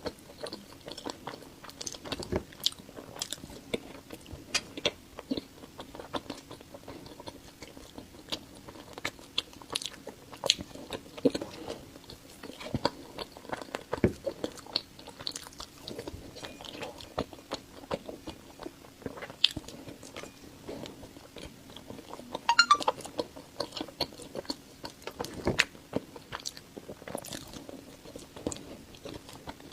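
Close-miked eating: irregular wet mouth clicks and smacks of biting and chewing a soft whole-wheat cake with a purple sweet potato and mochi filling, with a louder cluster of mouth sounds about 22 seconds in. A faint steady hum runs underneath.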